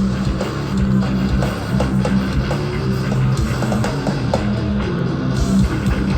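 Live hardcore band playing an instrumental stretch: heavily distorted electric guitar and bass riffing, loud and steady, with no vocals.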